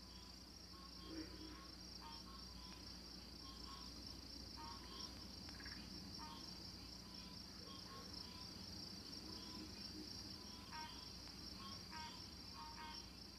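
Night insects: a continuous high trill with faint short chirps scattered through it.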